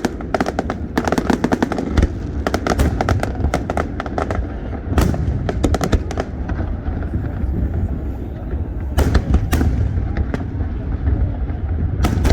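Fireworks display: rapid crackling from many small bursts in the first few seconds, then single loud bangs about five seconds in, twice close together around nine seconds, and near the end, over a continuous low rumble.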